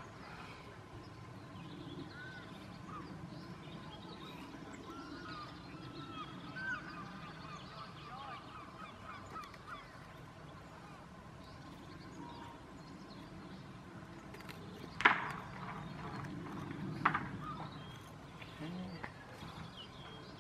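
Birds calling over and over, with two sharp clicks about two seconds apart near the end as the parts of a rubber-band model aeroplane kit are handled.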